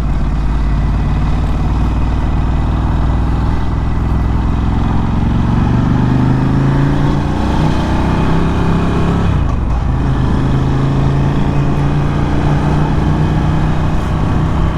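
Ducati Scrambler 1100's air-cooled L-twin engine through a Termignoni exhaust while riding. About six seconds in it accelerates with a rising pitch, then the pitch drops sharply about halfway through, as at a gear change or a roll-off of the throttle, and it settles back to steady cruising.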